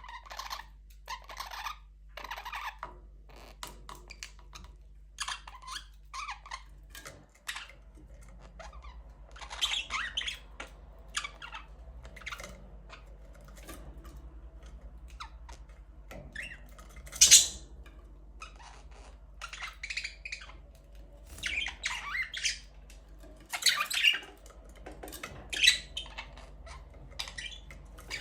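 Budgerigars chirping and squawking, with many short calls at irregular intervals and a loud squawk a little past the middle.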